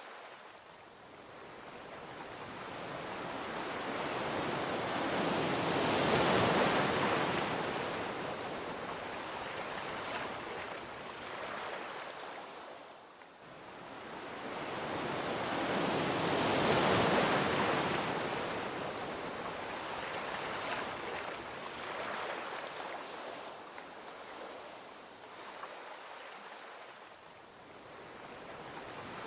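Gentle ocean waves rolling onto a beach: two slow swells of surf build and wash out, one about six seconds in and another about seventeen seconds in, with a third building near the end.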